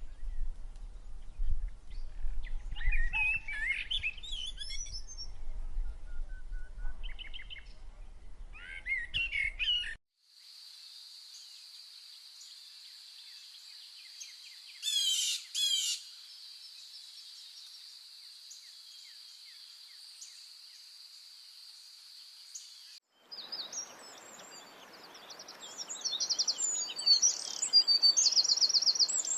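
Rainforest bird calls in three abruptly cut stretches. First come scattered chirps and calls over a low rumble. Then a steady high-pitched drone with two quick calls over it, and near the end a dense chorus of rapid chirping.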